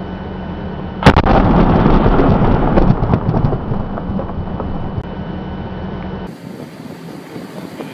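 A large explosion: one sudden, very loud blast about a second in, followed by several seconds of rumbling and crackling that slowly die away.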